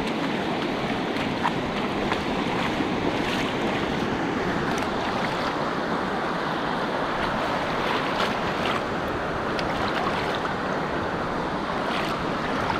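Sea surf washing onto the shore in a steady rush, with wind buffeting the microphone.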